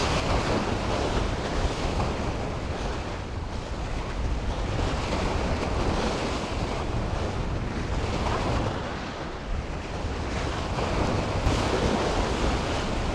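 Gulf surf washing steadily against a rock jetty, with wind buffeting the microphone in a steady low rumble.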